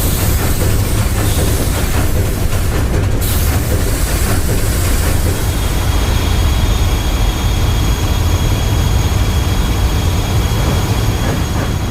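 Large ship's machinery running steadily, with a heavy low rumble and a hiss. The hiss thins about three seconds in, and a faint high whine joins it a couple of seconds later.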